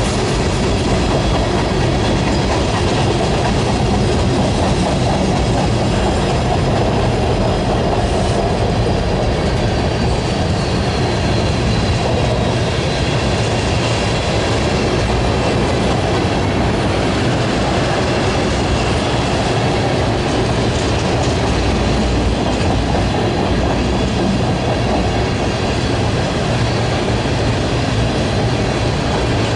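A train's cars rolling past on the rails: a steady, loud rumble of wheels on track, with a faint high wheel squeal sliding slightly lower around the middle.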